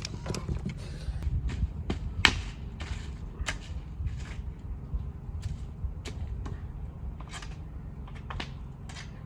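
Scattered sharp taps and knocks, about one or two a second with a louder one a couple of seconds in, over a steady low rumble.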